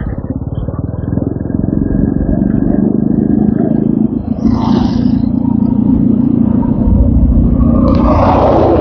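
TVS Apache RTR 200 4V's single-cylinder engine running on the road, growing louder over the first two seconds as it pulls, with a brief drop in the engine note about four seconds in. Two short bursts of hiss sit over it, one midway and one near the end.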